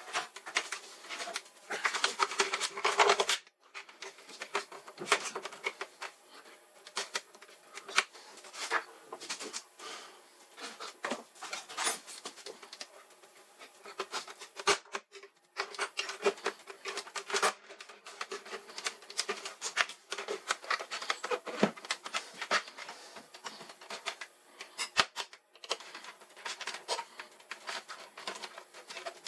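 Rapid irregular clicking, tapping and scraping of hands and tools working on hard plastic and metal parts, broken by three abrupt short dropouts.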